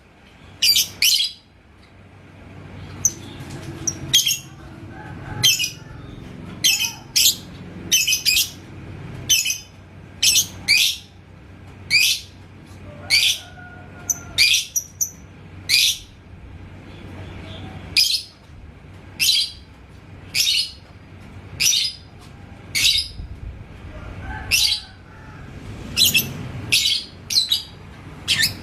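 Lovebird giving short, sharp, high-pitched chirps about once a second.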